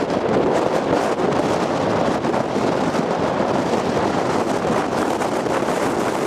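Steady rushing wind noise on the microphone, loud and even, with a slight flutter.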